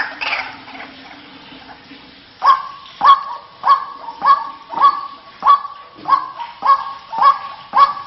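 White-breasted waterhen calls: a few fading calls at the start, then, after a brief lull, a steady run of short, sharp calls from about two and a half seconds in, a little under two a second.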